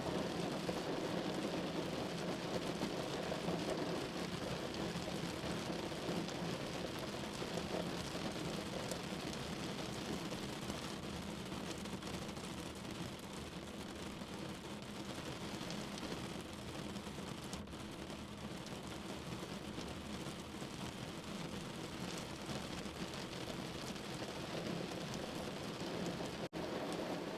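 Steady rain falling on a window pane, an even hiss of drops, with a momentary gap in the sound near the end.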